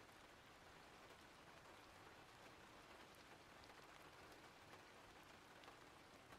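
Faint, steady rain ambience: an even hiss of rainfall with scattered small drop ticks.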